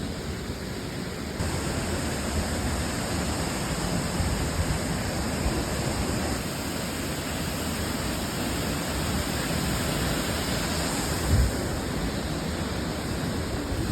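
Waterfall: the steady rush of Looking Glass Falls, a tall free-falling cascade plunging into its pool. It grows a little louder about a second and a half in. A brief low thump comes near the end.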